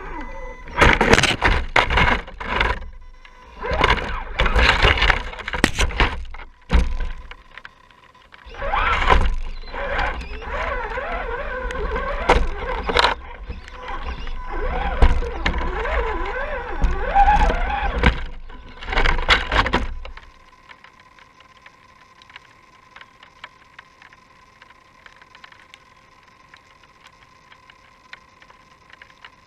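Crunching and cracking, as of twigs and brush, in irregular bursts with a heavy rumble on the microphone; it stops about twenty seconds in, leaving only a faint steady hum.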